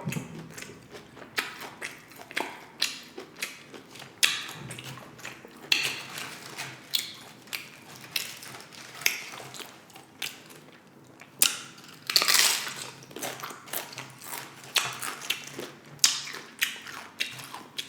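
Crunching of tortilla chips being bitten and chewed close to the microphone: a run of irregular crisp crackles with louder crunches every second or so.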